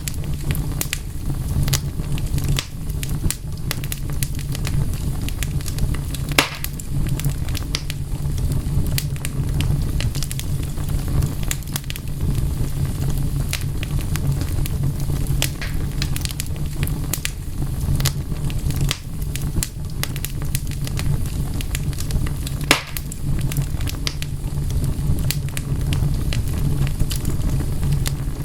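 Wood fire crackling, with frequent sharp pops and snaps over a steady low rumble; two pops stand out, about six seconds in and near the end.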